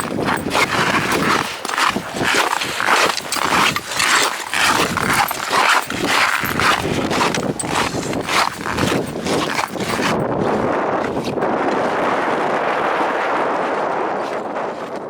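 Hiking boots crunching on packed snow in a quick, even run of steps while walking downhill. After about ten seconds the steps give way to a steady rushing noise.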